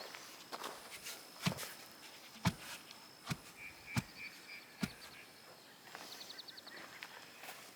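Footsteps and a handful of dull thuds, about one a second through the first five seconds, under a faint steady high insect whine and a few short runs of high chirps.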